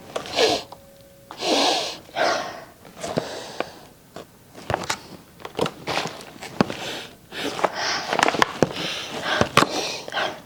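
Kitchen handling noises as salad greens are prepared: irregular rustling bursts with many small clicks and knocks.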